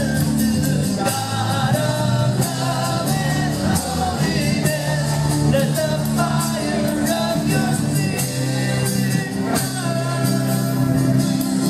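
Live worship band playing, with singing over guitar, keyboard and a drum kit keeping a steady beat.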